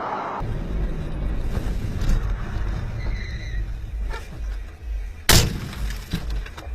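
Low, steady rumble of a car driving, then one sharp, loud bang a little after five seconds in: the impact of a car collision.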